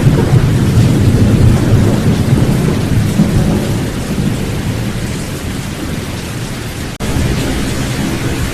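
Steady rain with a low rolling rumble of thunder, heaviest in the first few seconds and easing off. About seven seconds in the sound drops out for a moment and then resumes.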